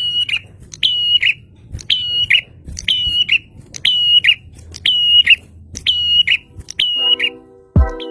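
Prinia (prenjak) calling about once a second with the same loud phrase, eight times: a sharp high note that drops onto a short held whistle and ends in a quick flick. Near the end the calls stop and music with a low beat comes in.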